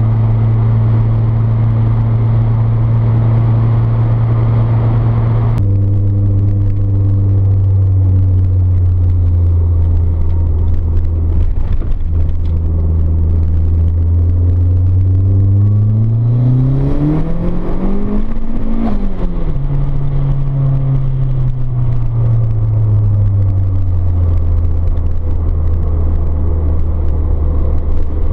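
Turbocharged Toyota 4A-GTE twin-cam four-cylinder in an AE82 Corolla, heard from inside the cabin while driving. A steady cruising engine note jumps to a lower note about five seconds in and sinks further. Past the middle the revs climb steeply for a few seconds, drop suddenly, and settle back to a steady drone.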